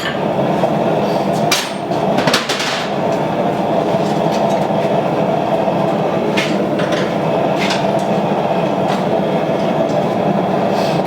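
Steady roar of a running blacksmith's forge, with a few sharp metal clinks and strikes about two, six and seven and a half seconds in.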